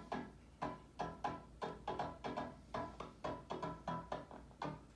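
Make Noise Mysteron physical-modelling resonator module playing a sequence of short pitched notes, each with a sharp attack that dies away quickly, about three notes a second at an uneven pace.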